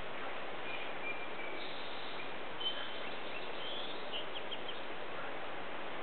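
Wild birds chirping and giving short high whistles over a steady background hiss, with a quick run of four or five short notes about four seconds in.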